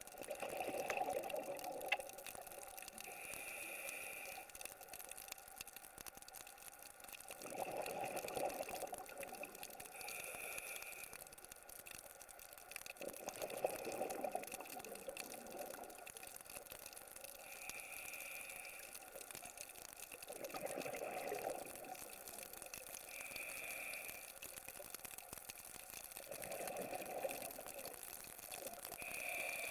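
Scuba diver breathing through a regulator underwater, in a slow regular cycle about every six and a half seconds: a short hiss as air is drawn in, then a longer gurgle of exhaled bubbles.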